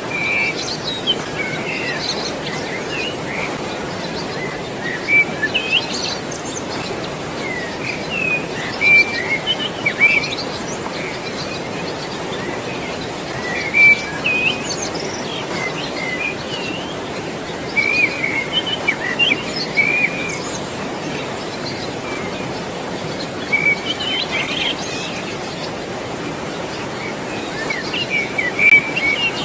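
Many birds chirping and calling over a steady rush of flowing water.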